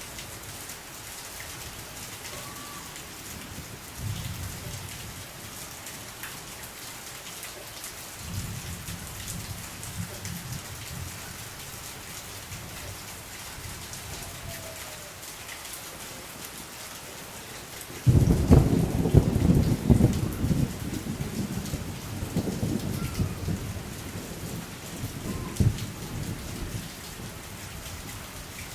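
Steady rain falling, with faint rumbles of distant thunder a few seconds in. About two-thirds of the way through, a loud clap of thunder breaks suddenly and rolls on, fading over several seconds.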